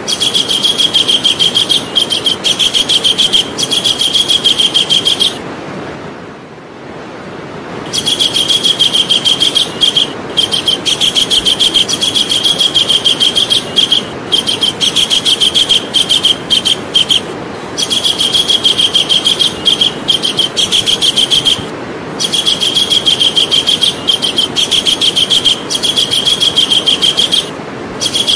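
Javan kingfisher calling: long runs of rapid, sharp, high notes, repeated over and over with brief pauses between runs, over a steady background hiss.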